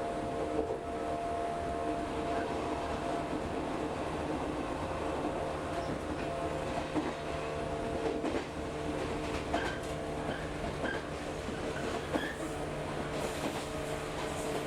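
Local passenger train running steadily, heard from inside the carriage: a constant rumble with a steady hum of several tones and light clicks from the wheels on the track.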